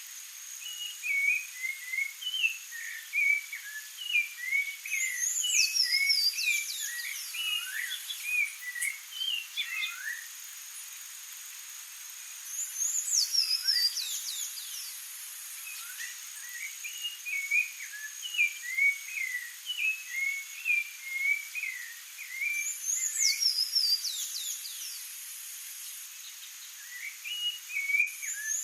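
Songbirds singing: phrases of short warbled whistles, broken about every eight to ten seconds by a quick high run of notes falling in pitch, over a faint steady high hiss.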